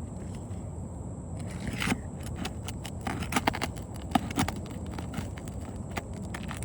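Sharp clicks and scrapes of hands and tools working on a shingle roof, starting about two seconds in, over a steady low rumble.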